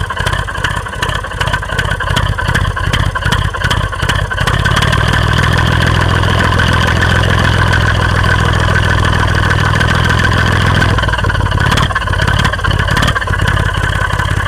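Toy RC car running, its small motor and gears whirring with a rapid rattling clatter. The sound steadies into an even hum for several seconds in the middle, then turns rattly again before cutting off suddenly.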